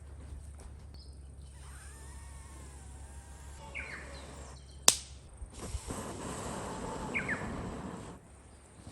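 Bird calls and chirps over a steady low outdoor rumble, with one sharp knock about five seconds in and a stretch of rustling after it.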